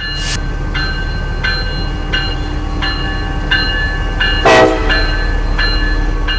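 CSX freight locomotive passing with its bell ringing about once every 0.7 s over the low rumble of the diesel engine, and a loud short burst about four and a half seconds in.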